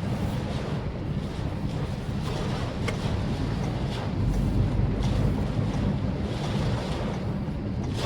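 Maruti Suzuki Swift Dzire driving on a wet road in the rain: a steady low rumble with a hiss of tyres on the wet surface, swelling slightly about halfway through.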